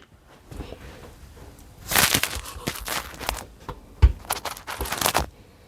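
Crinkling and rustling as items are handled and shifted, in two long bursts, with a single heavy thump about four seconds in.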